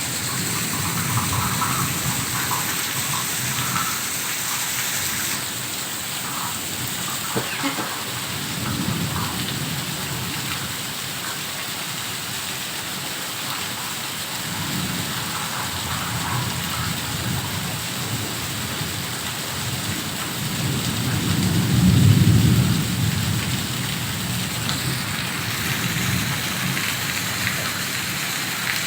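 Heavy rain falling steadily, with low rumbles swelling up several times, the strongest about two-thirds of the way through.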